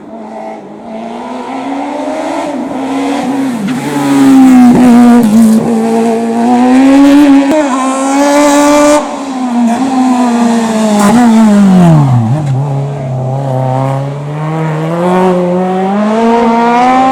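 Racing car's engine revving hard and changing pitch as it is driven through slalom chicanes, getting louder over the first few seconds as it approaches. The pitch climbs and falls repeatedly, and about twelve seconds in it drops sharply before rising steadily again under acceleration.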